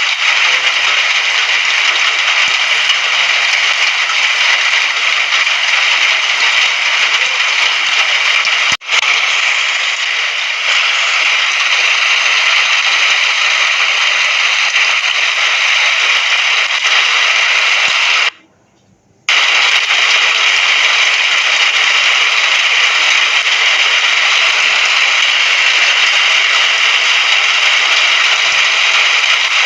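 Steady heavy rain: a dense, even hiss of falling drops with fine crackle. It cuts out completely for about a second past the middle, then resumes.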